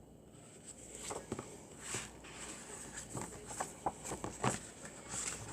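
A paper picture book being handled and its page turned: irregular soft taps and rustles that start about a second in.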